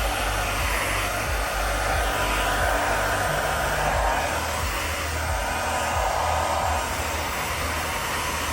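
Philips 1600 W hair dryer running, a continuous rushing of air whose tone wavers slightly, with a low rumble of airflow beneath.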